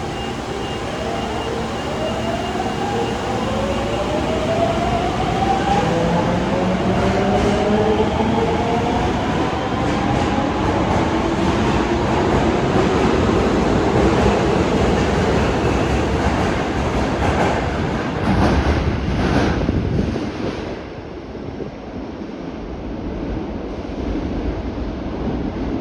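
Osaka Metro Tanimachi Line subway train pulling out of the station, its traction motor whine climbing in pitch over several tones as it accelerates. A run of wheel clatter about eighteen seconds in, then the train noise drops away.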